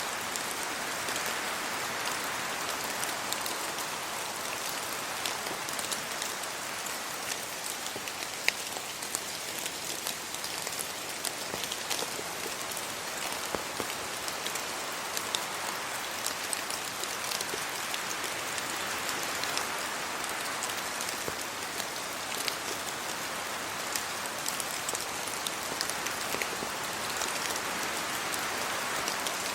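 Steady rainfall, a constant hiss of rain with many small individual drops ticking on surfaces nearby.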